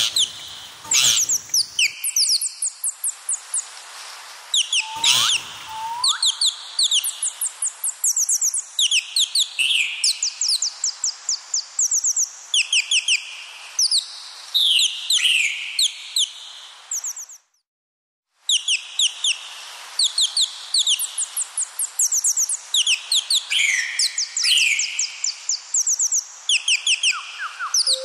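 Birds chirping and singing: quick runs of short, high chirps, repeated over and over. The sound cuts out completely for about a second, about two-thirds of the way in.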